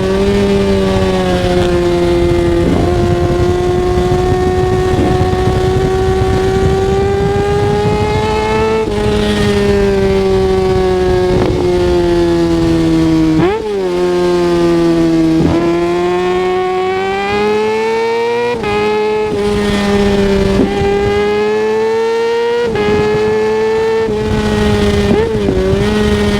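Kawasaki ZX-6R 636's inline-four engine running hard at high revs under way. Its pitch climbs and falls with the throttle, broken every few seconds by short blips and drops as the rider shifts gears.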